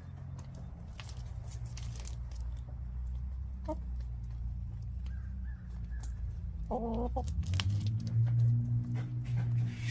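Backyard hens clucking softly, with a short call a little under four seconds in and a louder cluck about seven seconds in, over a steady low hum.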